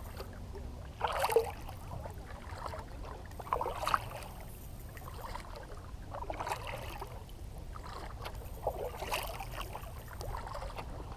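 Kayak paddle strokes in water: four splashing strokes about two and a half seconds apart, over a low steady rumble.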